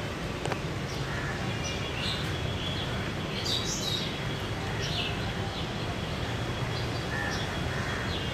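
Birds chirping in short, scattered high calls over a steady low background rumble.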